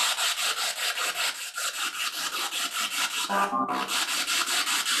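Spirit box sweeping through radio stations: rhythmic static pulses several times a second, with a brief snatch of pitched radio sound about three and a half seconds in.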